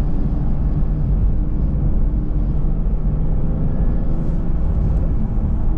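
Steady engine and road noise of a car on the move, heard from inside the cabin: an even low rumble with a faint engine hum.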